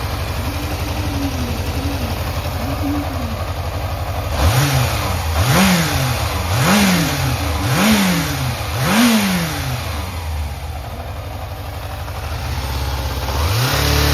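Yamaha XJR400 inline-four engine idling, then blipped on the throttle about five times, roughly once a second, each rev rising and falling back, before settling to idle and being revved up and held at a higher speed near the end. It runs cleanly, which the seller describes as free of abnormal noise.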